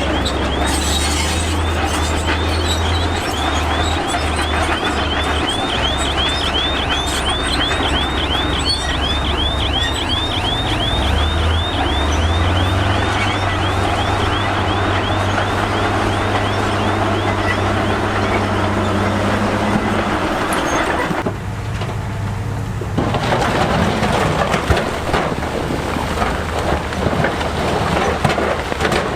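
Heavy diesel earthmoving machinery running, with a low engine drone. A high squeak repeats several times a second through the first half, then stops. The low drone drops out briefly about 21 seconds in.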